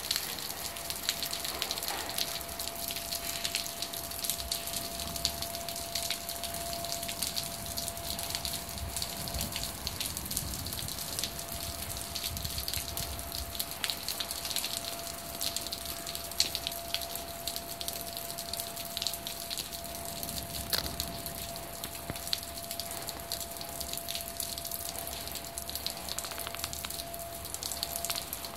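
Steady rain falling: an even hiss with many separate drops ticking as they strike close by.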